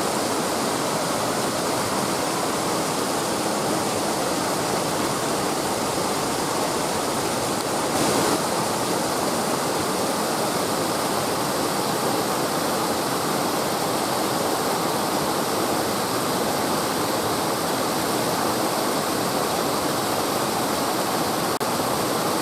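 Mountain stream rushing steadily, a loud, even rush of running water.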